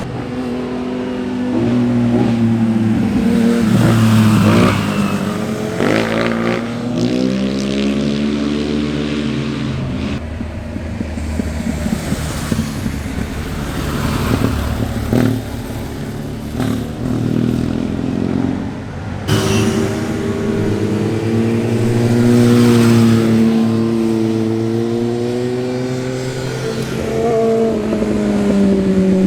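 Motorcycle engines revving on a winding road, pitch climbing and dropping with throttle and gear changes. A sudden switch to another engine about 19 seconds in.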